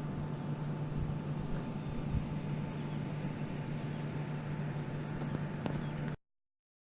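Steady low mechanical hum with a thin higher tone over it, cutting off abruptly about six seconds in.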